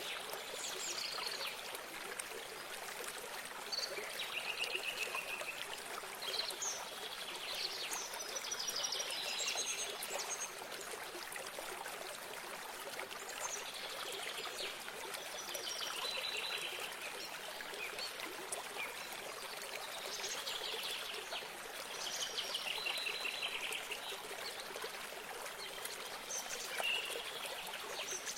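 A small stream of water trickling steadily, with songbirds singing short trilled phrases every few seconds over it.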